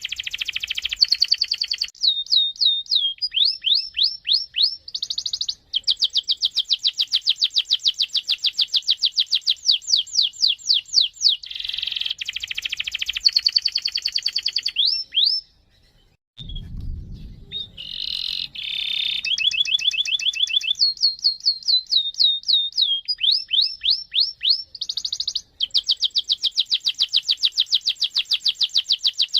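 Domestic canary singing a long rolling song: runs of fast repeated high trill notes that change speed and pitch from phrase to phrase. It breaks off for about a second halfway through and then starts again.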